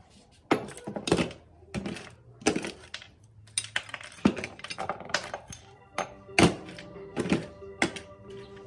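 About a dozen irregular sharp knocks and clinks of hard parts being handled, some loud. Steady held musical tones come in under them about six seconds in.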